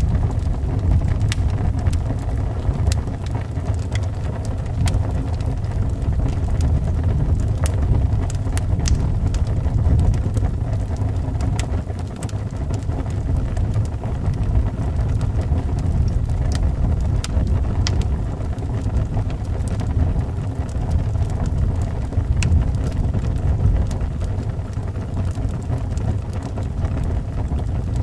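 Wind blowing in a steady deep rumble, with the sparse sharp pops and crackles of a burning wood fire scattered over it.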